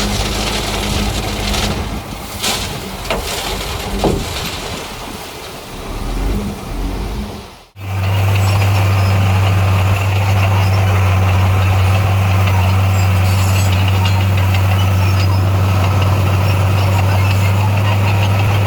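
Diesel engine of heavy earthmoving equipment running, with irregular knocks and clatter over it. About eight seconds in, the sound cuts off abruptly and gives way to a loud, steady engine drone.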